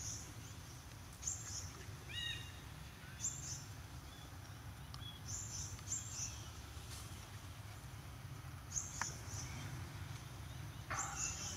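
Forest birds calling: short, high, slightly falling chirps repeated every second or two, with one lower, fuller call about two seconds in, over a low steady rumble.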